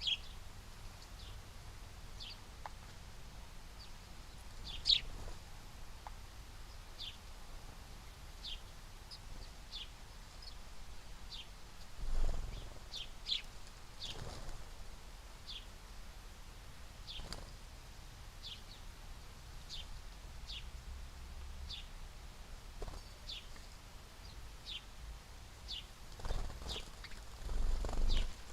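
Small birds calling with short, high chips, roughly one a second, with a few low, muffled thumps about halfway through and twice near the end.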